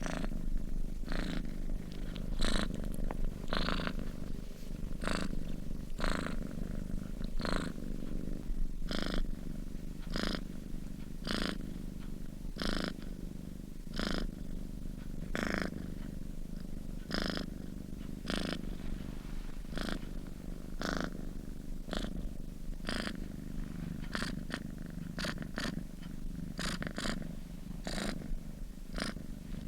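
Domestic cat purring steadily in its sleep, a low continuous rumble with a soft breathy pulse about once a second as it breathes in and out.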